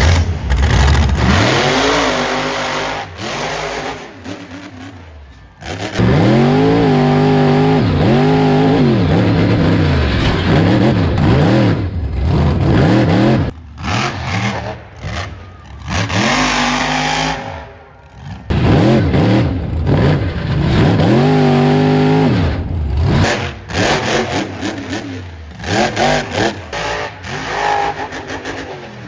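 Monster truck engine revving hard again and again, its pitch climbing and falling with each blip of the throttle, cut off abruptly several times between clips.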